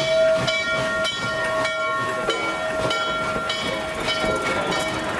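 Steam locomotive working slowly, its exhaust chuffing about two to three times a second under a steady high tone that shifts slightly a couple of times.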